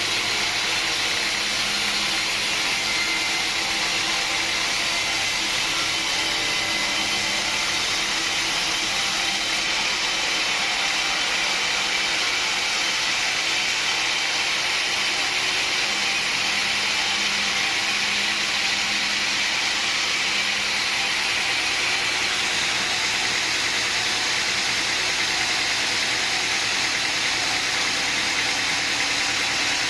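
A machine running steadily, a continuous even noise with a faint low hum and no strokes, breaks or changes in speed.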